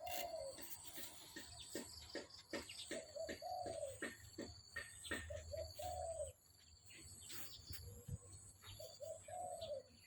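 King pigeons cooing: several rising-and-falling coo phrases, among them one just after the start, one a few seconds in, one near the middle and one near the end. Many short clicks and taps run throughout.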